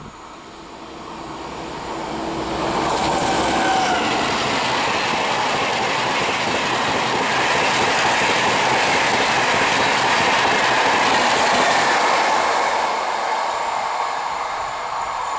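Indian Railways express train passing at speed: the wheel and rail noise builds over the first few seconds, stays loud for about ten seconds, then begins to fade near the end.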